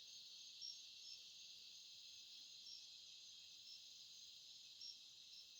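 Faint steady high-pitched chorus of crickets and other night insects, with a few short chirps standing out over it.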